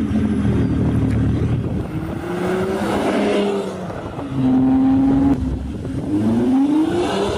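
Diesel car engine being revved repeatedly through its exhaust: the pitch climbs, drops, is held high for about a second past the middle, then falls and climbs again near the end.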